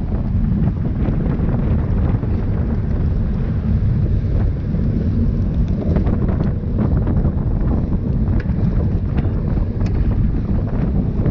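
Steady wind buffeting a camera microphone moving at riding speed: a dense low rumble, with a few faint scattered ticks.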